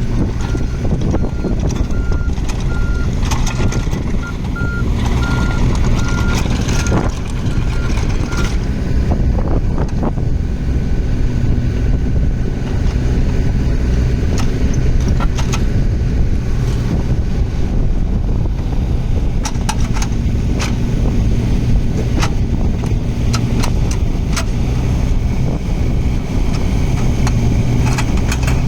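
2014 Komatsu PC14R-3HS mini excavator's diesel engine running steadily, with a warning alarm beeping rapidly for the first eight seconds or so. Scattered sharp clanks and knocks from the working machine come through the engine sound.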